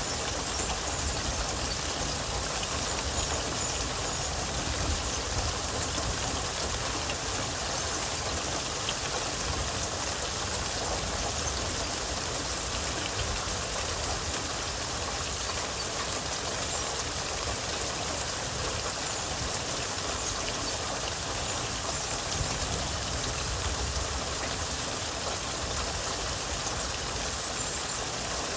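Steady rain falling, an even hiss with fine ticks of individual drops throughout.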